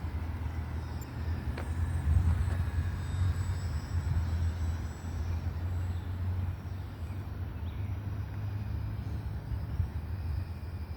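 Wind rumbling on the microphone, with the faint high whine of a small electric RC plane's motor and propeller, an E-flite UMX Turbo Timber Evolution, rising and falling in pitch as it flies around.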